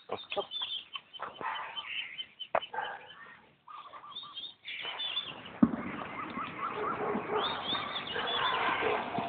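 Birds chirping, with a few sharp knocks in the first three seconds and one loud thump a little over halfway through.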